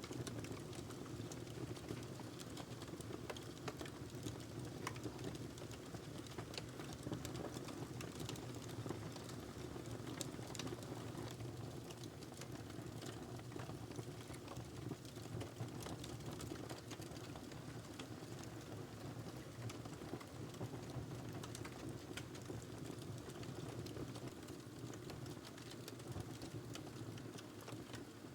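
Wood fire crackling steadily over a low roar of flames, with frequent small sharp pops and snaps scattered irregularly.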